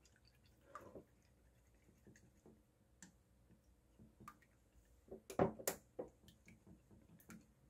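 Metal chopsticks beating eggs in a ceramic bowl: faint, scattered light clicks against the bowl with soft squishing of the egg, then three sharper, louder clicks about five and a half seconds in.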